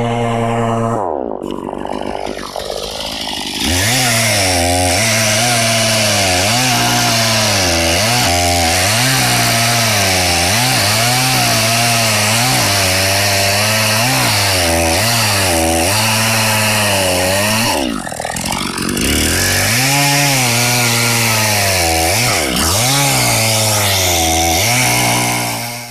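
Chainsaw cutting, its engine pitch repeatedly dropping as it bogs under load and rising again as it frees up. The engine slows more deeply about two seconds in and again about eighteen seconds in, then picks back up.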